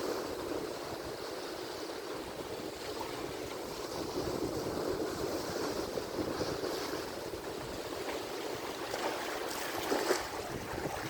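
Atlantic Ocean surf: a steady wash of breaking waves, swelling slightly about ten seconds in.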